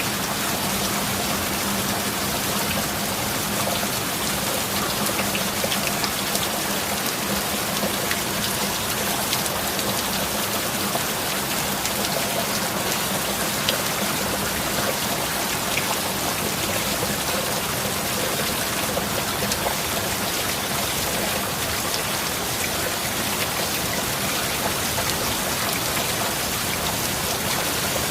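Steady rain falling on a surface: a dense, even hiss of rain with many fine individual drop ticks and no thunder.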